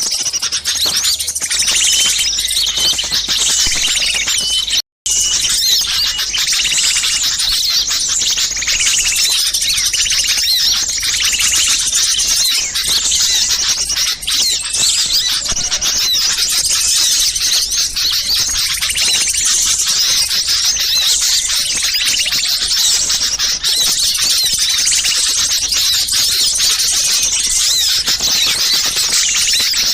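A dense, continuous chorus of many small songbirds chattering and chirping at once, a noisy lure recording for attracting wild birds. The sound cuts out for an instant about five seconds in.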